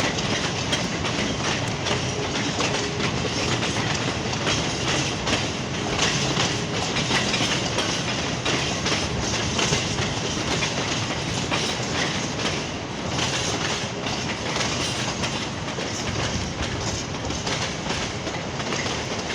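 Freight train hauled by a Class 66 diesel locomotive passing close by as it picks up speed, its wheels clattering over the rail joints in a steady, continuous rush.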